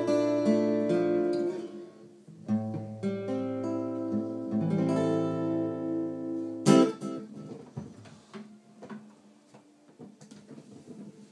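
Acoustic guitar playing the closing chords of the song. The chords break off briefly near two seconds, then resume and end in one final sharp strum near seven seconds that dies away. Faint small clicks follow.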